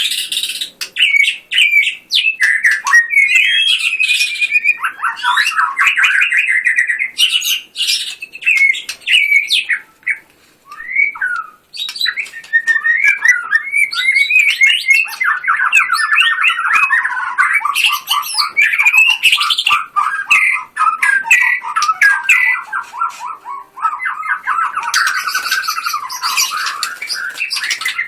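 White-rumped shama singing loudly: a varied song of whistled phrases and rapid-fire runs of repeated notes, with a short break about ten seconds in.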